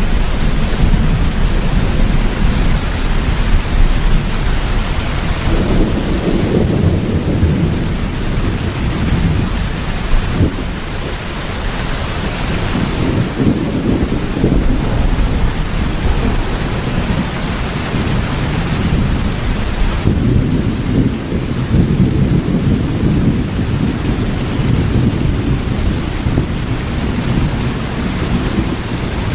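Steady rain with low rolling thunder. The rumble swells about six seconds in and again about twenty seconds in.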